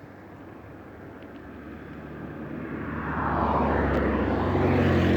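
An engine approaching and growing louder from about two seconds in: a steady engine hum with a sweeping whoosh, loud by the end.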